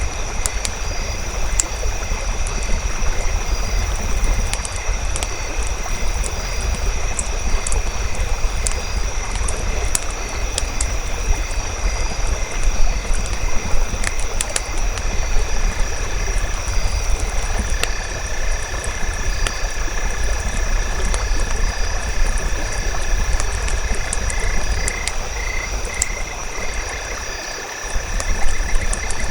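Campfire crackling with scattered sharp pops over a low steady rumble, under a continuous chorus of frogs and insects calling in repeating pulses.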